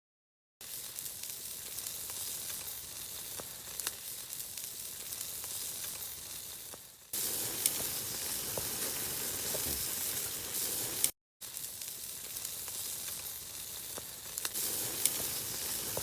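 Steady sizzling from cooking over a campfire, a hiss with occasional sharp pops; it grows louder about seven seconds in.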